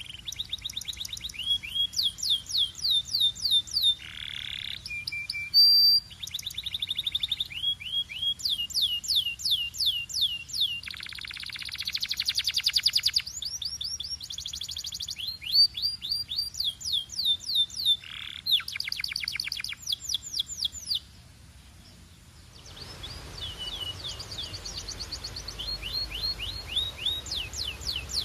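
Domestic canary singing in fast trills of rapidly repeated, downward-sliding notes, switching between phrases. The song breaks off briefly about three-quarters of the way in, then carries on over a steady hiss.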